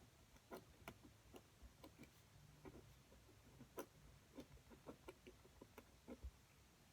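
Faint, irregular light clicks and taps, two or three a second, with uneven gaps, over the hush of a quiet room.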